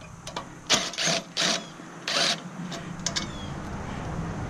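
Hand tools and metal parts scraping and rubbing as a stainless steamer is taken apart: four short rasping scrapes in the first half, then a few light clicks.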